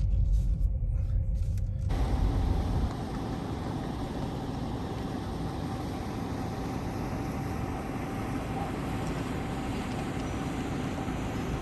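Car driving, with low road and engine rumble in the cabin. About two seconds in the sound changes abruptly to a steady, brighter hiss of road and wind noise with a faint steady tone.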